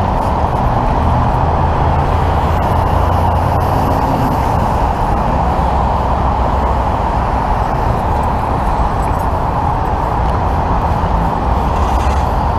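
Steady, loud running of motor vehicles: a constant engine rumble with freeway traffic noise, with no single distinct event.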